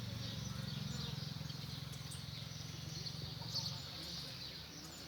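Small birds chirping and twittering in the background over a low steady hum that fades about four seconds in.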